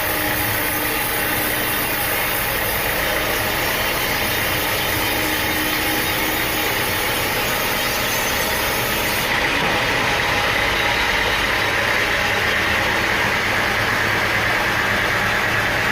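Sawmill machinery running steadily, its engine loud and even. About nine seconds in the sound changes abruptly and a higher whine comes up stronger.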